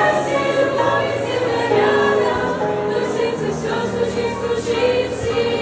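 A choir singing a Christian song, several voices together.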